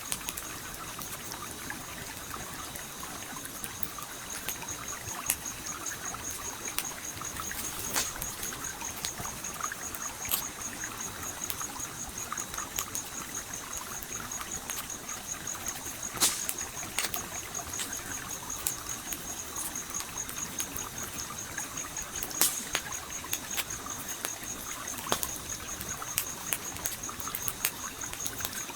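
Campfire crackling with irregular pops and a few louder snaps, over the steady rush of a flowing stream. A thin, high-pitched, fast-pulsing tone sits steadily above it all.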